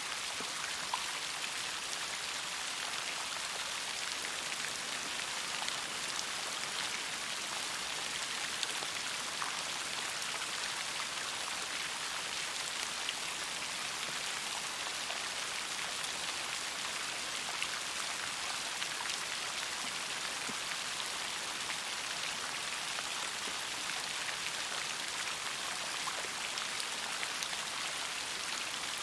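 Steady rain falling, a dense even patter of many small drops hitting a surface.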